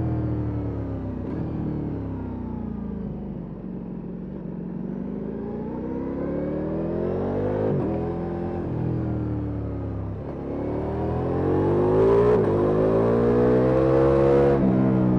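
Ducati Multistrada V4 S Rally's 1158 cc V4 engine through an Akrapovic exhaust, heard from the rider's position: revs fall off the throttle over the first few seconds, then climb, with a sharp gear change about eight seconds in. It pulls hard again in the last few seconds, where it is loudest.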